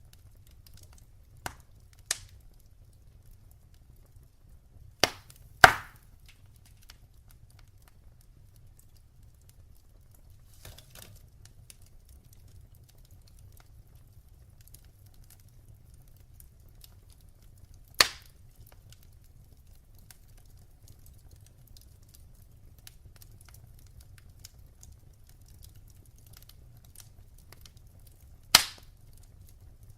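Wood fire burning in a fireplace: a low steady rumble of flames under faint crackling, broken by about six sharp pops, the loudest pair about five seconds in, another near the middle and one near the end.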